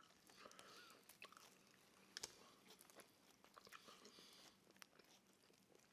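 Faint close-up chewing of thin-crust pepperoni pizza, with soft wet mouth clicks and a sharper crunch or click about two seconds in.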